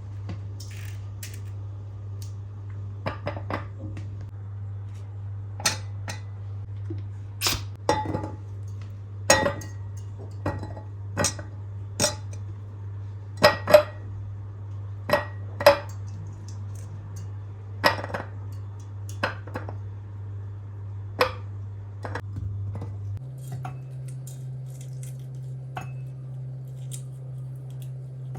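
Jars and food containers clinking and knocking as they are set down and moved about, about a dozen sharp knocks spread unevenly, over a steady low hum.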